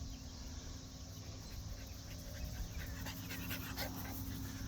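A dog panting faintly, with a few short breaths standing out between about two and a half and four seconds in.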